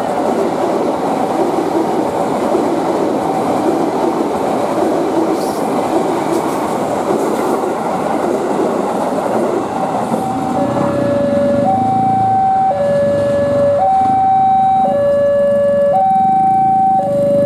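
KRL electric commuter train running through a level crossing. From about ten seconds in, the crossing's warning alarm comes through clearly: an electronic two-tone signal alternating between a lower and a higher tone, each held about a second, warning that a train is passing.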